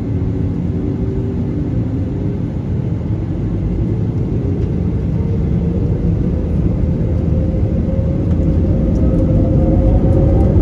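Airbus A320neo's Pratt & Whitney PW1127G geared turbofan engines heard from inside the cabin as they power up for the takeoff roll: a loud rumble under a hum that climbs slowly in pitch and loudness.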